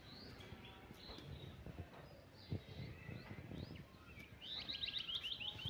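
Small birds chirping faintly, ending in a quick run of about ten high chirps in the last second.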